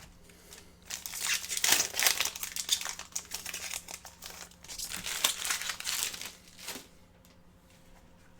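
Trading-card pack wrapper being torn open and crinkled in irregular bursts for about six seconds, then only faint handling.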